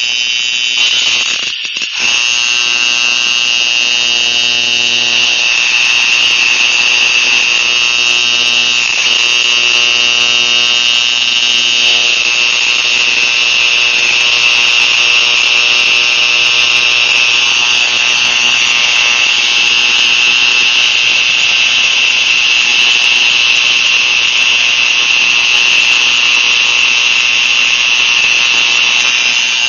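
Spark injector test rig running at about 20 psi: a loud, steady, high-pitched buzzing hiss, with a short dip about a second and a half in.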